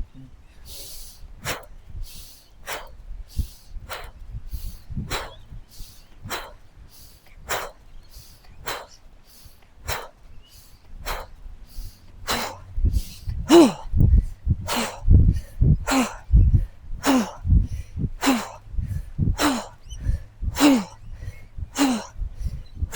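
A woman's short, forceful exhalations in a steady rhythm, about one and a half a second, the breathing of hard exercise. About halfway through they grow louder, many ending in a short falling grunt.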